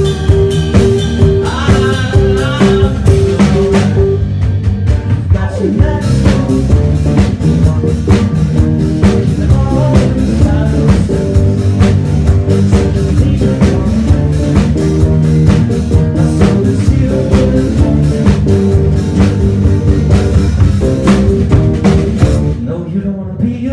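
Live rock band playing an instrumental passage between sung verses: drum kit keeping a steady beat under electric guitar and bass. Near the end the cymbals stop for about a second before the band comes back in.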